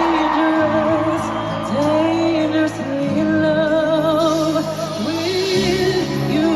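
Live concert recording of a female singer performing a slow R&B ballad. She holds long notes with vibrato and slides up into each phrase, over sustained keyboard and bass chords.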